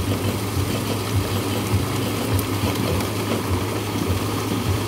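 Heavy thunderstorm rain pouring down: a steady rushing noise with a low, constant rumble underneath.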